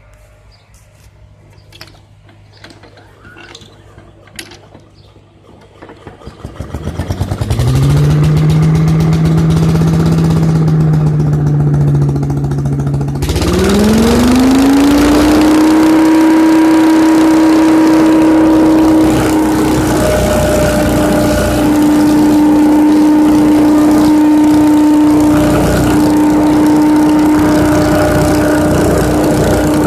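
Small petrol engine of a leaf vacuum starting about six seconds in, running at a low idle, then revving up about thirteen seconds in to a steady higher speed with a rushing hiss of air through the machine. A few light clicks come before the start.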